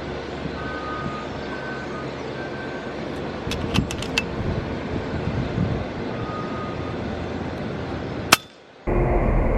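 A single sharp air rifle shot near the end, over a steady outdoor background with a few light ticks and faint short high tones.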